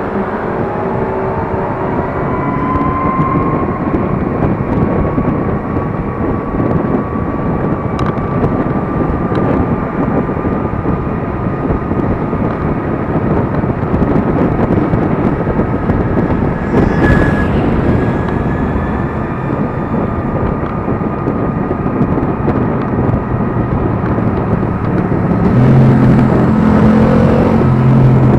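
Riding noise on a Gogoro 2 electric scooter: steady wind and road rush, with the thin whine of the electric motor rising in pitch over the first few seconds as it speeds up, then holding steady. Near the end a low hum from another engine joins in.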